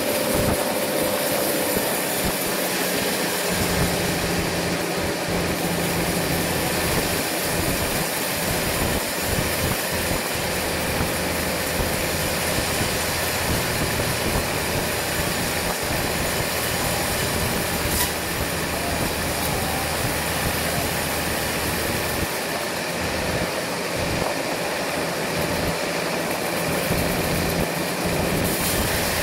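Sawmill machinery running steadily: a continuous loud mechanical noise with a faint steady hum.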